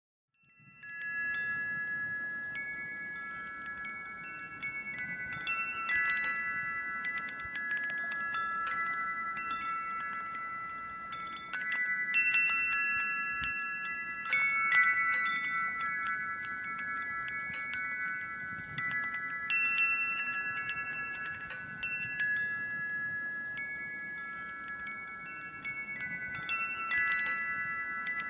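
Wind chimes ringing: several overlapping, sustained bell-like tones struck again and again at irregular moments. The sound comes in about half a second in.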